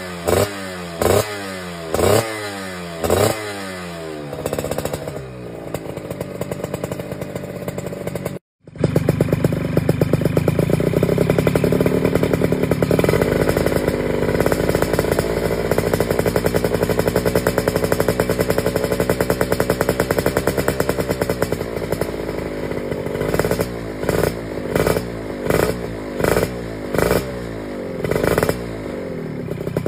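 Yamaha F1ZR two-stroke underbone motorcycle with a KEN2 racing exhaust, revved in quick throttle blips about once a second. After a brief cut-out it is held at a steady raised rev for about ten seconds, and the blips come back near the end.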